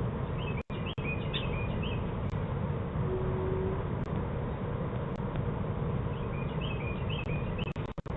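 A small bird chirping in two short twittering bursts, one near the start and one near the end, over a steady outdoor hiss, heard through a Ring doorbell camera's thin-sounding microphone. The sound cuts out for an instant twice.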